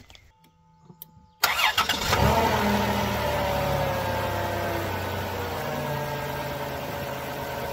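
Dodge 3.8-litre V6 in a 2005 Grand Caravan cranking briefly and catching about two seconds in, on its first start with freshly installed spark plugs. It flares up, then settles into a steady idle whose pitch eases slowly down.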